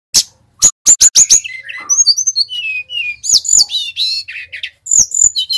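Sikatan rimba dada coklat (a jungle flycatcher) singing a fast, varied song of sharp clicking notes and down-slurred high whistles.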